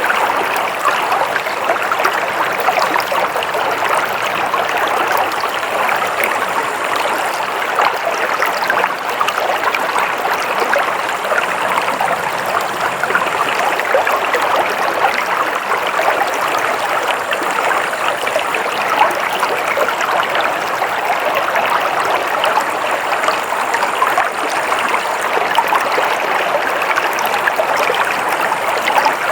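Flowing stream of water: a steady, unbroken rush of running water with many small splashes through it.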